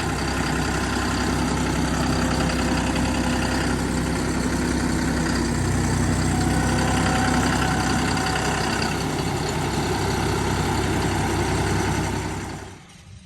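Diesel farm tractor engine running at a steady idle. It drops away sharply near the end.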